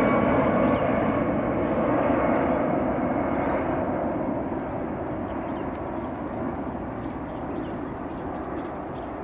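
Boeing 747's four jet engines sounding as a steady wide rush that fades away gradually as the airliner flies off after passing low and close overhead.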